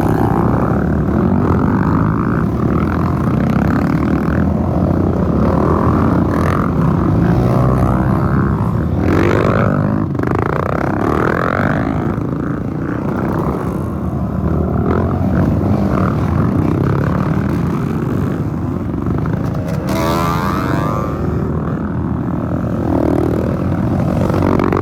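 Several off-road trail motorcycles running and revving as they pass one after another, with engine pitches rising and falling and overlapping throughout.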